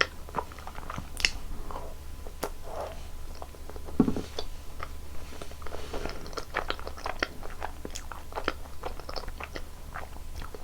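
A person chewing and biting food close to the microphone: many short sharp mouth clicks, with one louder bite about four seconds in.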